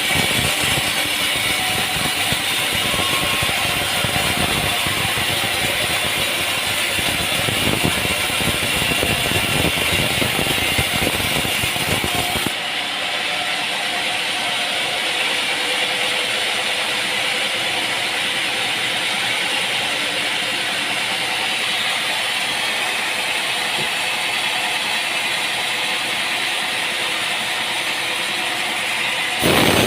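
Sawmill machinery running steadily with a rattle. About twelve seconds in the sound changes abruptly and loses its deep low end, and it jumps again just before the end.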